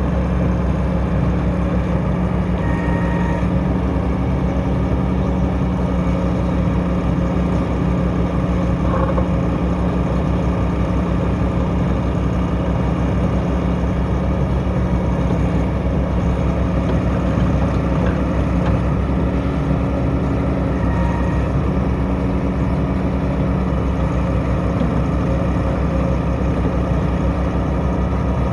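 Volvo EC230B tracked excavator's diesel engine running steadily at an even pitch, with a few faint brief tones over it.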